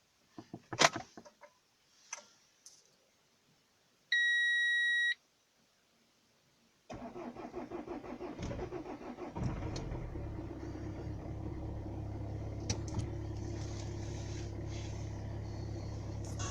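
A few clicks, then a single electronic beep lasting about a second. The starter cranks the cold 2004 Renault Megane 2 1.5 diesel for about two and a half seconds, and the engine catches and settles into a steady diesel idle. It is a hard cold start at minus 13 degrees, and the owner says it was not very easy.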